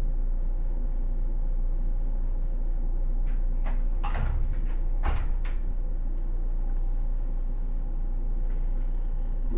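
Interior sound of a 107 series electric multiple unit: a steady low rumble and hum, with a few sharp clunks about three to five seconds in.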